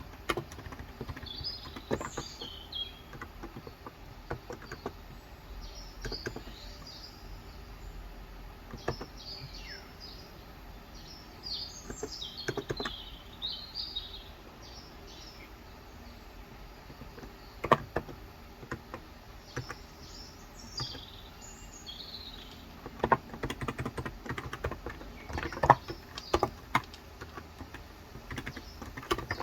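Small birds chirping in short clusters of high calls, with scattered keystrokes on a Cox Endeavor 35 g tenkeyless electro-capacitive keyboard: a few isolated key presses through the middle, then a short run of typing near the end.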